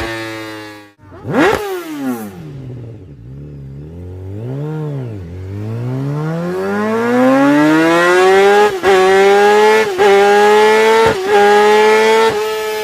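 Sport-bike engine revving hard: a sudden break about a second in, a quick sharp blip that falls back to a low idle, then a long climbing rev that holds high with four brief cut-outs.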